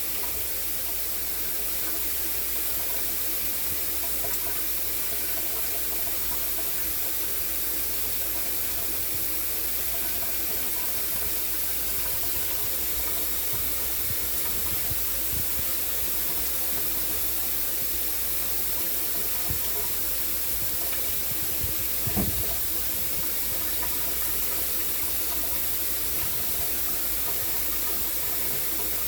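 Shower spray running steadily: an even hiss of falling water. A brief faint thump comes about 22 seconds in.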